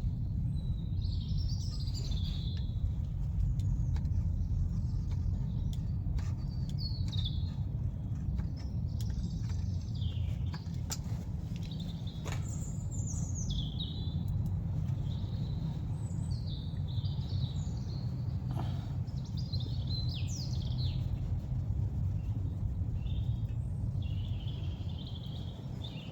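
Small birds chirping and warbling again and again over a steady low rumble, with a few sharp clicks.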